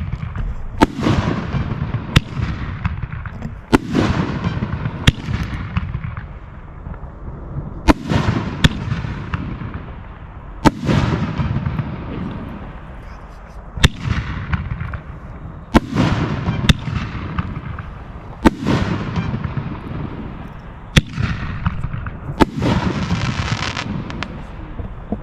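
Display fireworks going off: about fifteen sharp reports at irregular gaps of one to three seconds, each with a rumbling, echoing tail that dies away.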